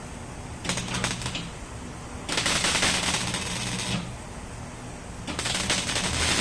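Welding arc crackling and sputtering in three bursts: a short one about a second in, then two longer runs of about a second and a half each, with pauses between them.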